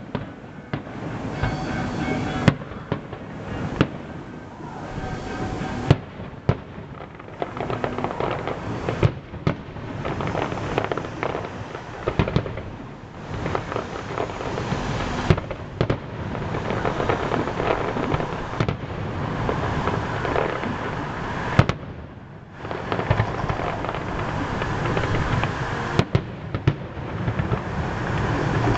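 Fireworks display: a dense, continuous run of shell bursts and crackling, with several louder single bangs standing out and a brief lull about two-thirds of the way through.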